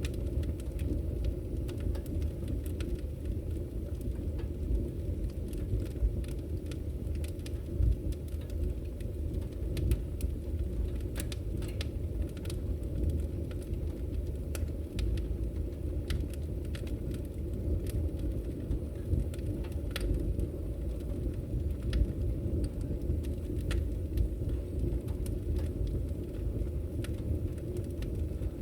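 Wood fire burning steadily: a low rumbling of the flames with frequent sharp crackles and pops from the burning logs at irregular intervals.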